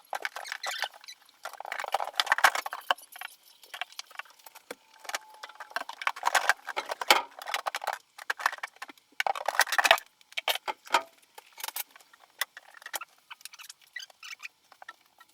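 Irregular rustling and scratching, broken by many sharp clicks, coming in bursts with short pauses between.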